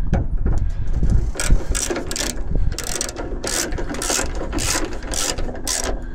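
Hand ratchet wrench clicking in repeated strokes, about two a second, as bolts are driven in to fasten a door latch.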